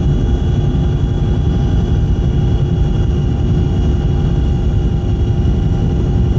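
Helicopter engine and rotor noise heard from inside the aircraft: a steady low rumble with a constant high whine over it.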